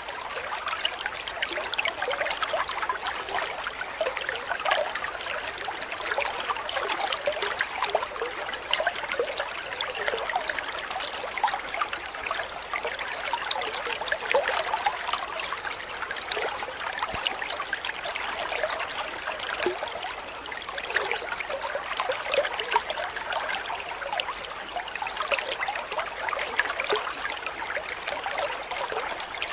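Water trickling and babbling like a small stream, a steady splashy wash.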